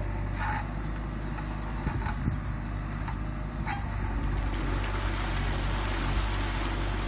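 JCB 3DX backhoe loader's diesel engine running steadily, with a few short squeaks, a knock about two seconds in, and a rising hiss from about halfway.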